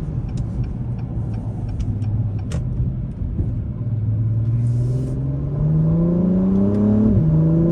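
Acura TLX Type S's turbocharged 3.0-litre V6, in Sport Plus mode, running steadily and then pulling with rising revs, with a quick drop in pitch near the end as the gearbox shifts up before the revs climb again. Heard from inside the cabin.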